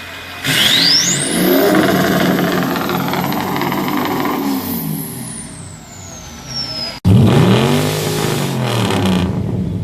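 Car engine with a loud aftermarket exhaust revved hard: the engine note climbs, holds high for a few seconds and sags back, with a high whine sweeping up alongside it. After a sudden cut, a second short rev rises and falls.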